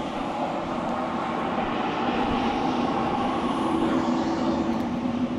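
CLAAS Xerion 5000 tractor engine running steadily under load while pulling a cultivator through the field, its hum growing a little louder about two seconds in.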